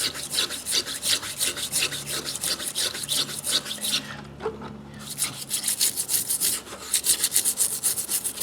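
Rusty steel pliers being scrubbed by hand in rapid back-and-forth strokes, several a second, with a short pause about four seconds in.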